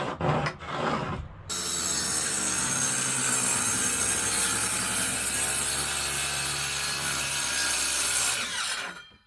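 A few rubs and knocks of wood being handled, then a power saw starts cutting wood about a second and a half in, running steadily, and winds down with a falling pitch near the end.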